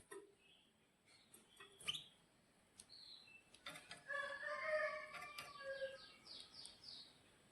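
Domestic canary chirping faintly: scattered short chirps, then a quiet run of warbled notes and quick falling whistles in the second half, with a sharp click about two seconds in.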